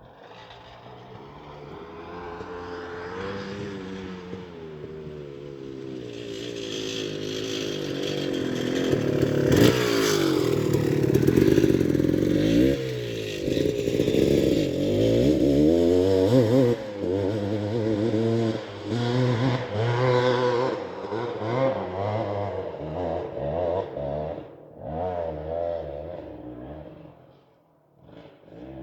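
Dirt bike engine revving hard on a hill climb. It grows louder over the first ten seconds, then rises and falls quickly with the throttle, and near the end breaks into short bursts with gaps before dropping away.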